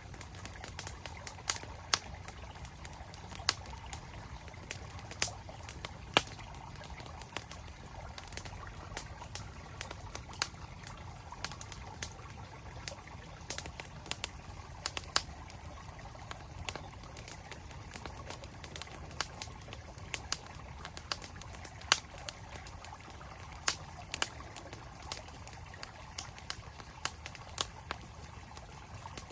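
Campfire crackling with frequent irregular sharp pops, over the steady rush of a mountain stream.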